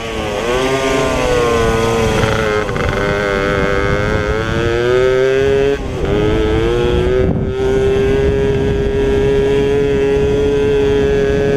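Pit bike engine at race speed, its note rising and falling with the throttle, dipping briefly at the start and again about six seconds in before climbing back and holding steady.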